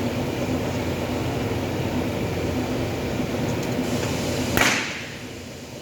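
A steady machine hum, then a single sharp crack near the end with a short ring: a stud welder firing a stud onto a steel panel door.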